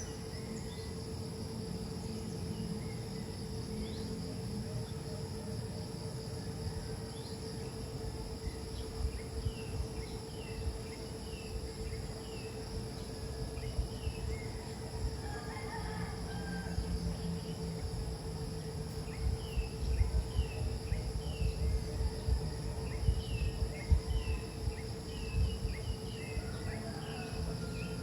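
Insects, crickets most likely, trilling steadily in high, even drones, over a faint steady hum. From about eight seconds in, short falling chirps repeat many times, and low rumbles and thumps come in during the last third.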